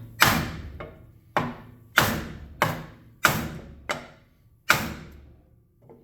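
Repeated hammer blows on a heated motorcycle front wheel rim, beating out a flat spot: about seven heavy strikes, roughly one every half to two-thirds of a second, each ringing briefly, with a few lighter knocks between.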